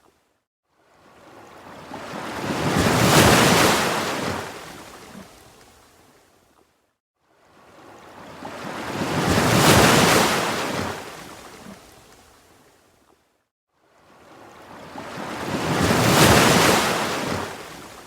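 Ocean waves washing in, three even swells about six and a half seconds apart. Each rises for about two seconds and fades away, with a brief hush between them.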